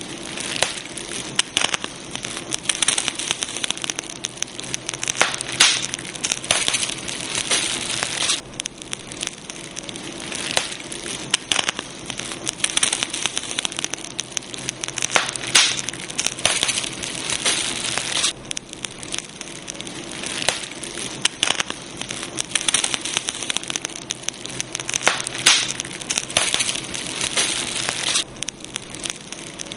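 Campfire burning, wood crackling and popping irregularly over a steady hiss, with sharper snaps every second or so.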